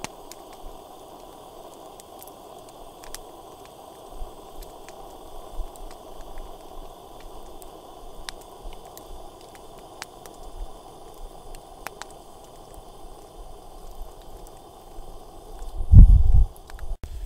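Wood campfire burning with a steady hiss and scattered sharp crackles and pops. A loud, low thump comes about a second before the end.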